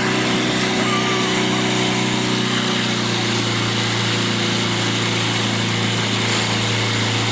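A small boat's motor running at a steady speed, with a constant hiss over it.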